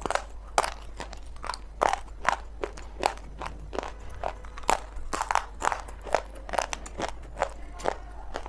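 Close-up crunching and chewing of dry multani mitti (fuller's earth clay) chunks, with sharp crisp crunches about two a second.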